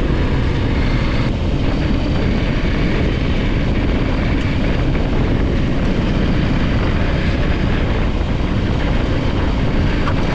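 Adventure motorcycle being ridden at speed: steady engine drone mixed with heavy wind noise on the microphone.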